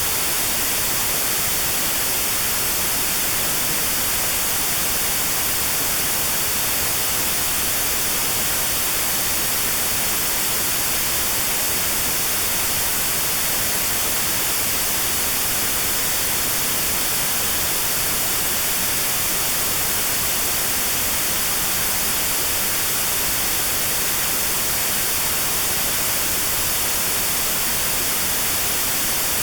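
Steady white noise with a narrow band around 4 kHz cut out: notched sound therapy aimed at a 4 kHz tinnitus tone.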